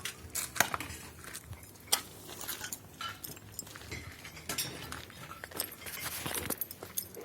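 Irregular clinks and knocks of hard objects, like metal pieces being handled, with the sharpest knocks about half a second and two seconds in.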